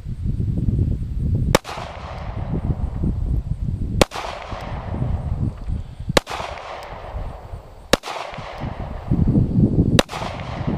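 Five handgun shots, evenly spaced about two seconds apart, each ringing out with a long echo. Wind rumbles on the microphone between the shots.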